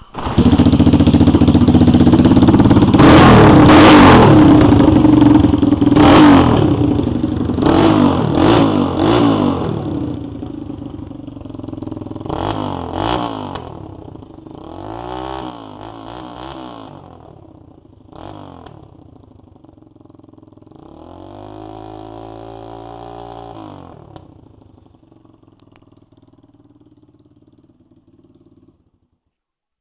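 Honda ATC 200X single-cylinder four-stroke engine bursting into life on a cold start and being revved again and again, the revs rising and falling with each throttle blip. It is loudest in the first ten seconds; later blips are fewer and quieter, and the engine dies away near the end.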